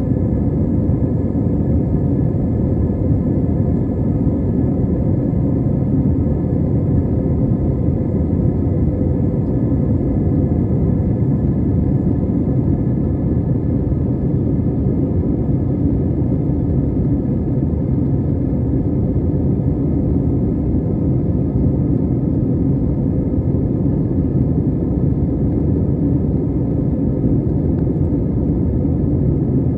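Airbus A320 jet airliner heard from inside the cabin: a loud, steady rumble of the engines and airflow, with faint steady whine tones above it that do not change.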